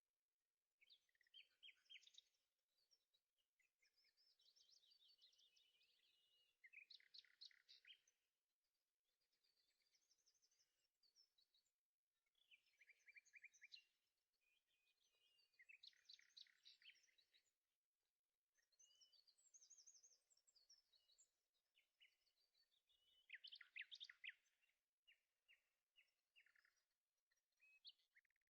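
Faint birdsong: phrases of quick, repeated chirping notes that come every few seconds, with short pauses between them.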